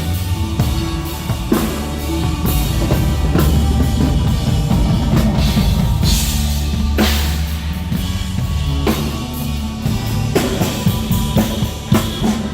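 Live rock band playing an instrumental passage with the drum kit to the fore: steady bass notes under bass drum, snare and repeated crash-cymbal hits.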